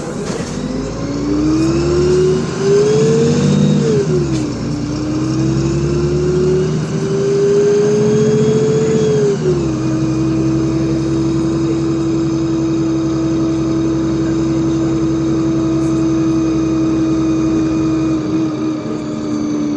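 LiAZ 5292.65 city bus accelerating, heard from inside the cabin: the engine and transmission whine rises in pitch, drops sharply at a gear change about four seconds in, rises again, and drops at a second gear change near halfway. After that the bus runs steadily at an even pitch.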